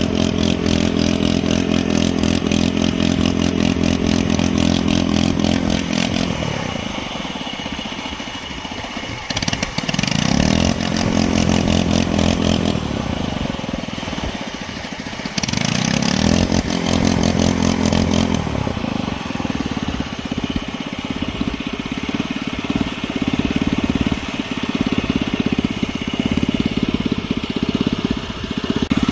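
Engine-like running sound from a hand-built RC Cat D11 bulldozer model. It runs loud and steady, drops away twice and comes back, then goes on more unevenly near the end.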